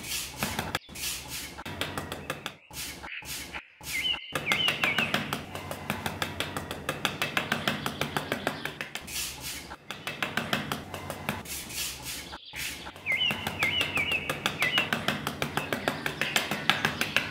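Small metal hand trowel scraping and digging through fine sand, a gritty rasp with several louder scrapes. Short runs of bird chirps come in twice.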